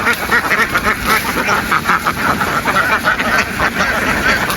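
A flock of domestic ducks quacking all at once, a dense chorus of overlapping calls with no break.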